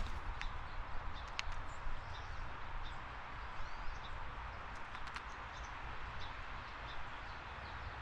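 Outdoor backyard ambience: a steady hiss and low rumble, with scattered short clicks and a few faint, brief high bird chirps.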